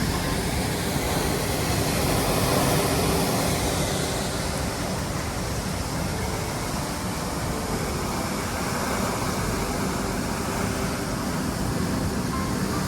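Heavy storm rain pouring down as a steady rushing noise.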